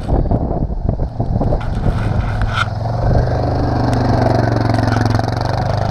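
An engine running steadily with a low hum under wind noise on the microphone, with irregular crunching and scraping in the first couple of seconds.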